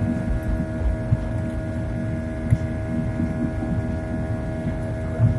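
Airliner engine noise during takeoff: a steady drone with several held tones over a low, uneven rumble, with occasional small knocks.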